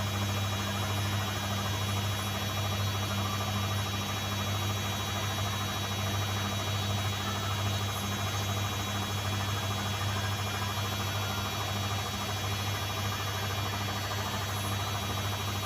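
Zanussi washing machine running, a steady low hum with no change in level.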